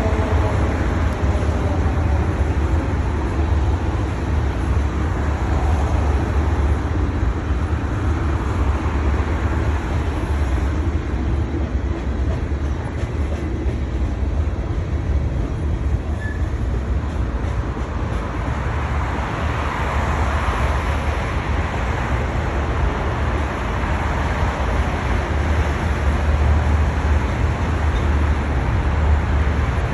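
Long freight train's cars rolling past, a steady low rumble and rattle of wheels on the rails.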